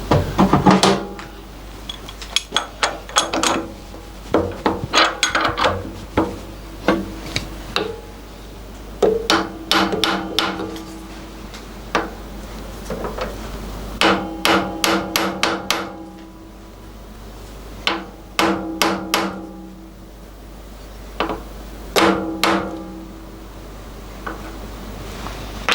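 Hammer taps on an aluminium workpiece clamped in a milling vise, seating it down onto the parallels: clusters of quick sharp taps every second or two, each with a short metallic ring.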